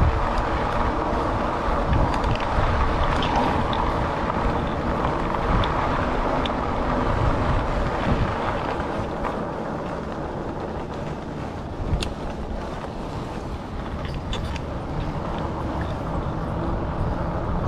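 Wind buffeting a chest-mounted action camera's microphone while riding a Rad Rover fat-tyre e-bike, with a steady low rumble from the ride and a sharp tick about twelve seconds in.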